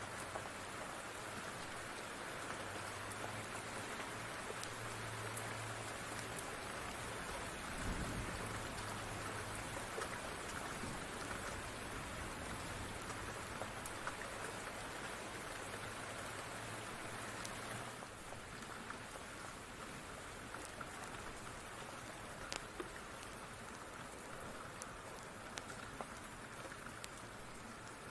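Steady rain falling, with scattered sharp pops from a crackling wood fire. A low thump comes about eight seconds in.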